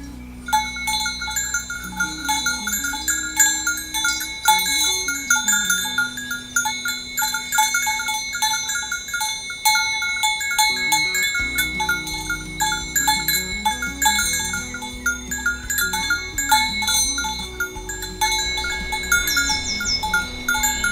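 Many cowbells on a herd of cattle clanking irregularly as the cows walk, over a low tone that rises and falls. A few quick high chirps come near the end.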